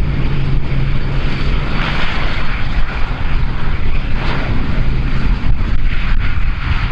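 Airliner engines running, a loud steady rushing noise with a low hum underneath.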